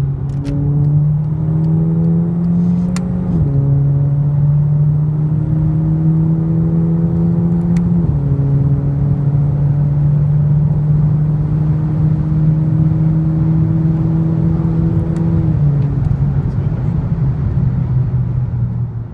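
VW Golf V GTI's turbocharged 2.0-litre four-cylinder, with catless downpipe and Bull-X axle-back exhaust, pulling hard under full acceleration at high speed. The engine note climbs slowly and drops sharply at DSG upshifts about three and a half and eight seconds in, with a smaller drop near the end.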